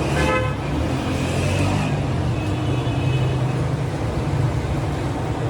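A steady low mechanical rumble, like running motors or passing traffic, with a few faint voices in the first half second.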